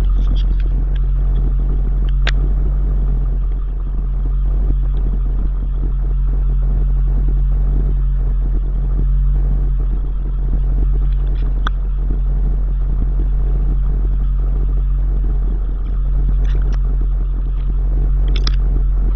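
Ford 7.3 Powerstroke V8 turbo diesel idling steadily, with a few faint short clicks over it.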